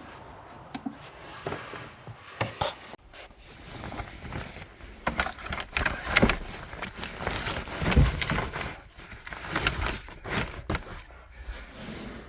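Gear being handled and set down while bedding is laid out in a truck camper: irregular clicks, knocks and rustling, with one heavier thump about eight seconds in.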